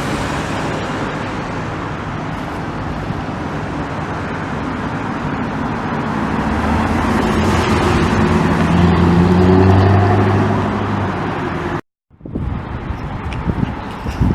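Street traffic with a sports car's engine note swelling for several seconds and then fading as the car drives past. The sound cuts out abruptly near the end and resumes with traffic.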